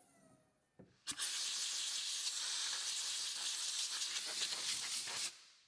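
A steady hiss lasting about four seconds, starting just after a click and cutting off abruptly.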